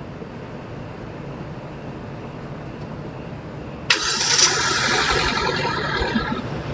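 A low steady rumble of traffic, then about four seconds in a vehicle engine starts suddenly and loudly and runs for a couple of seconds before fading.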